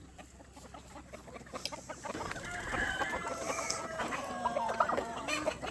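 A flock of chickens clucking and squawking together, faint at first and growing louder and busier after about two seconds.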